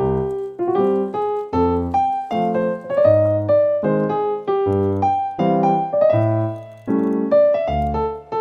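Background piano music: a steady run of notes over a repeating bass line.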